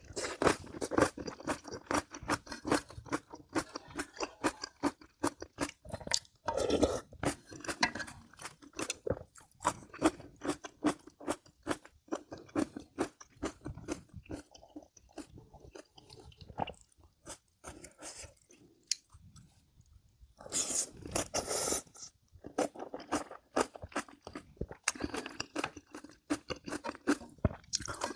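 A person chewing and crunching food, a meal of spicy kimchi with scorched rice, in a rapid, irregular run of crisp crunches with a few louder stretches.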